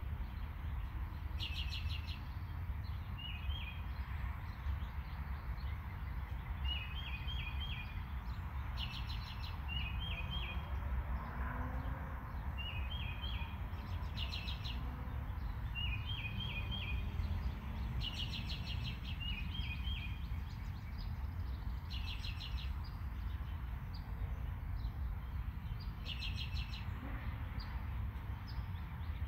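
Small birds chirping: a short, rapid series of high chirps comes every few seconds, with softer three- or four-note chirps in between, over a steady low hum.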